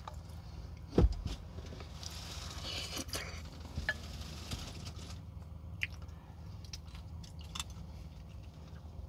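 Close-up eating sounds: a person chewing and biting food with soft wet mouth noises, over a steady low hum. A single sharp click, the loudest sound, comes about a second in, with a few fainter clicks after it.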